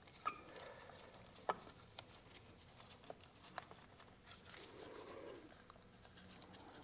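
Faint, scattered clicks and light knocks of hand tools and metal parts being handled, with a brief soft rustle, over a quiet background.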